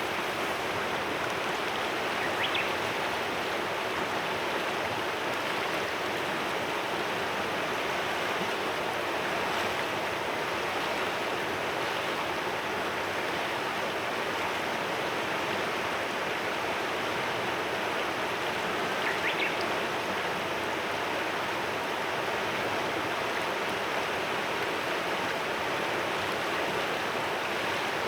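Clear mountain river murmuring steadily. A bird chirps briefly twice over it, once early and once about two-thirds of the way through.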